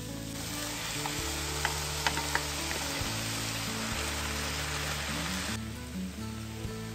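Onion, grated carrot and rice sizzling in hot oil in a pan while being stirred with a wooden spatula, with a few sharp ticks of the spatula against the pan. Chopped zucchini pulp goes in and the sizzle quietens about five and a half seconds in.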